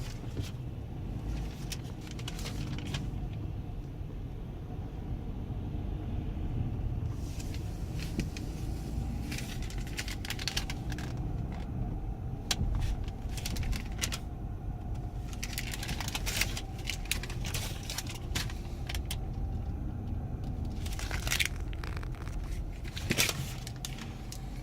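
Dodge Grand Caravan minivan driving slowly, heard from inside the cabin as a steady low engine and road rumble, with scattered light clicks and rattles through it.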